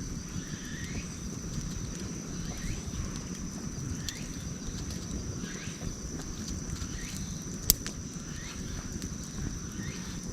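Campfire burning with a steady low rumble and occasional crackles of the wood, one sharp pop about three-quarters of the way through. Behind it, a steady high whine and a faint short rising chirp repeat about once a second.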